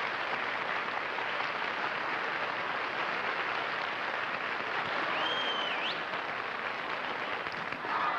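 Studio audience applauding steadily, with a brief high gliding tone, like a whistle, about five seconds in.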